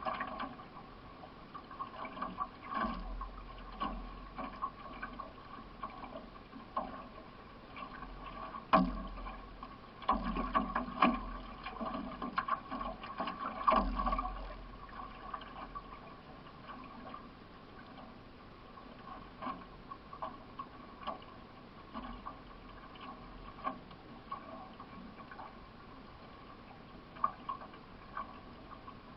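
Paddle strokes and water splashing around a solo racing canoe, heard from on board, with irregular sharp knocks and splashes. They come more thickly between about 9 and 15 seconds in.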